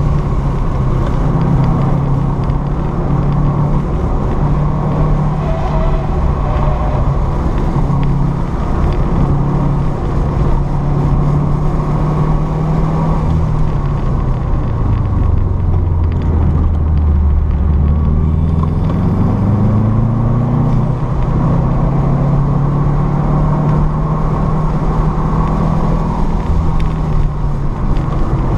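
Car engine heard from inside the cabin at speed on a race track, running steadily at light throttle with road and wind noise. About sixteen seconds in, the engine note sinks lower, then climbs back up over a few seconds.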